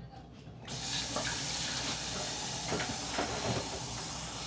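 Kitchen tap running into a sink, starting suddenly about a second in and stopping abruptly near the end, with a few faint knocks under the water.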